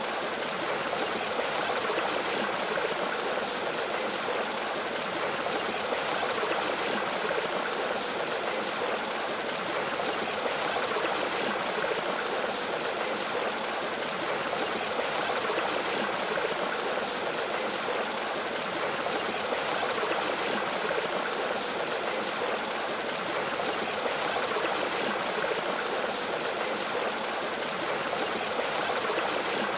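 Mountain stream running over rocks with a small waterfall: a steady, even rush of flowing water.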